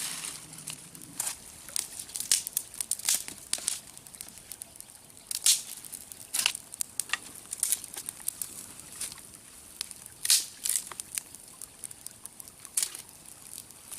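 Short, irregular crinkling and crackling rustles, like dry leaves and twigs being handled or trodden on, coming every second or so.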